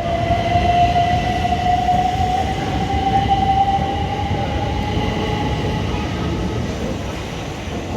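Class 377 Electrostar electric multiple unit moving through the station: a rumble of wheels under a steady electric traction whine that rises slowly in pitch as the train gathers speed, easing off near the end.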